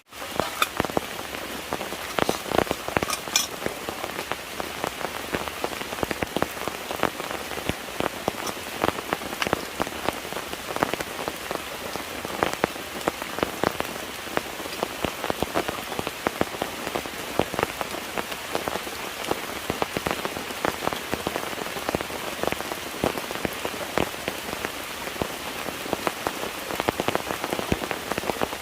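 Steady rain, with many separate drops striking close by as sharp ticks over an even hiss.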